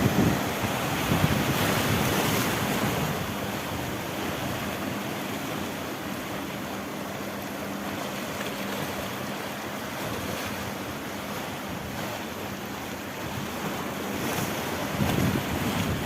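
Mediterranean sea waves breaking and washing against a rocky shore, with wind buffeting the microphone. The surf is louder in the first few seconds, eases in the middle, and picks up again near the end with gusty rumbles.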